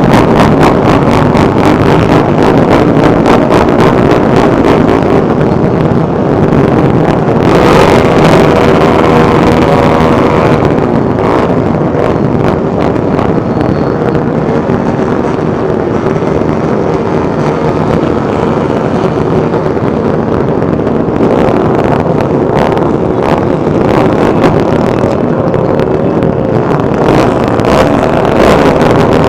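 A dense mass of motorcycle engines running together, loud and continuous, with engines revving up and down over the steady drone.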